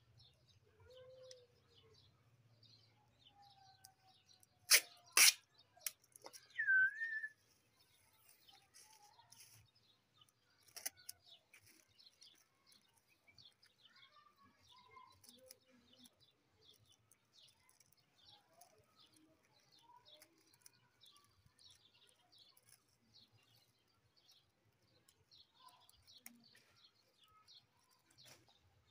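Small birds chirping faintly throughout, with two sharp snaps about five seconds in and a short, louder call just after.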